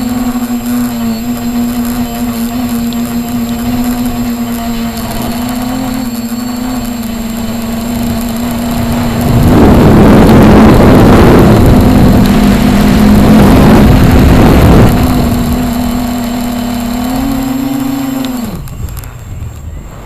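Radio-controlled helicopter running at a steady pitch, with a loud rushing noise over it for about five seconds in the middle. Near the end the pitch drops sharply and the sound falls away briefly.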